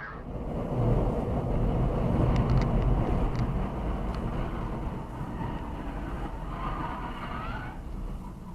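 A moving road vehicle: a steady low rumble of engine and road noise, with a few light ticks about two to three seconds in.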